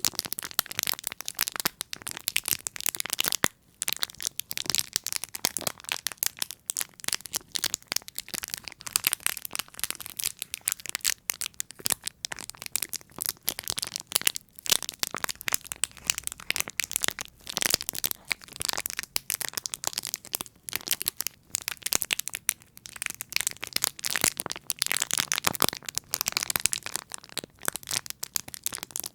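Close-miked ASMR trigger sounds: a dense, continuous run of crisp crackling clicks and crinkles, with a few brief pauses.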